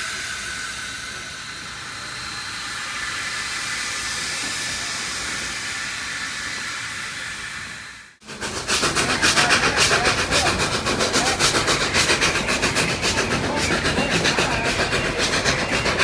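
Narrow-gauge steam locomotive letting off a steady hiss of steam. After an abrupt cut about halfway through, a moving steam train gives a louder, fast, rhythmic clatter.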